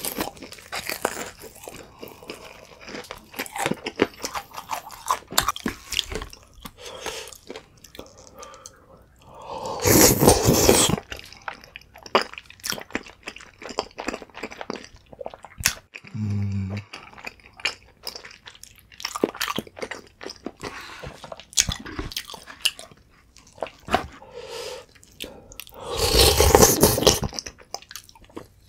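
Close-miked eating sounds: crunching and chewing of the crisp, powder-coated crust of BHC Chipongdang fried chicken, as a run of many small crackles. Two louder, longer bursts come about ten seconds in and near the end, where rice-cake tteokbokki in sauce is being eaten.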